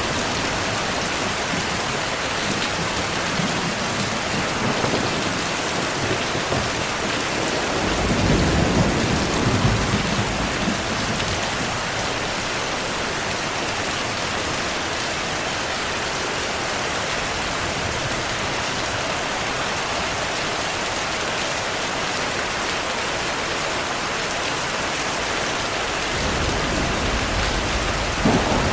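Steady heavy rain with thunder. A low rumble rolls through about eight to eleven seconds in, and another builds near the end, topped by a sharp crack.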